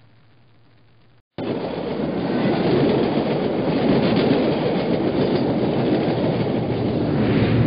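Train passing close by: a loud, steady rumble with wheels clacking over the rail joints. It cuts in abruptly about a second in, after a faint low hum and a moment of silence.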